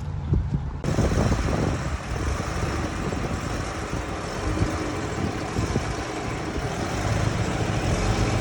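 Steady motor vehicle rumble with road and wind noise, changing abruptly about a second in.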